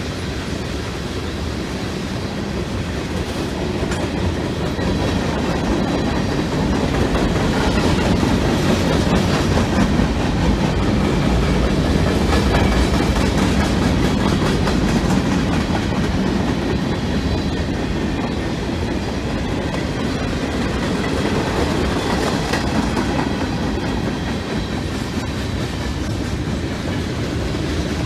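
Freight train cars rolling past, steel wheels clacking and rumbling on the rails, the noise swelling a little and then holding.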